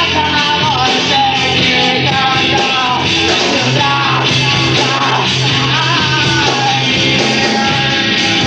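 Rock band playing live: electric guitar with bass and drums, and a voice singing a wavering line over it through the first part.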